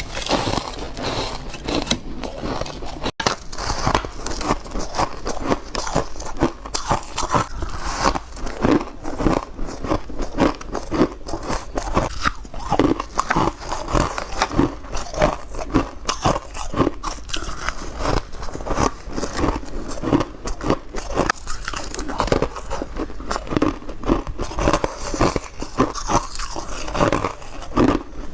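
A person biting and chewing ice close to the microphone, a steady run of crisp crunches one or two a second. There is a brief gap about three seconds in.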